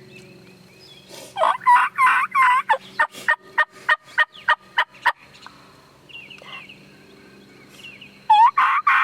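Wild turkey gobbling: a loud, rapid rattling gobble about a second in that trails off into spaced notes, and another gobble starting near the end.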